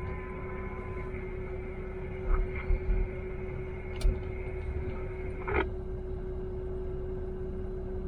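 Steady hum inside a pickup truck's cab, with a few low thumps a little over two seconds in, a sharp click about four seconds in, and a short crackle just before six seconds where a higher steady tone cuts off.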